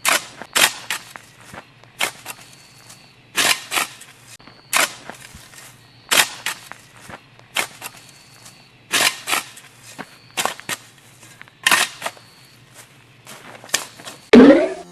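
A series of sharp knocks or taps at irregular intervals, roughly one a second, over a faint steady hum, with a short rising sweep near the end.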